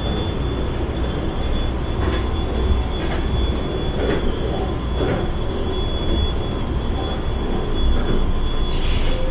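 A CSR Zhuzhou "AMY" light rail car running at speed, heard from inside the passenger car. It makes a steady low rumble of wheels on rail, with a thin steady high tone over it and faint clicks now and then.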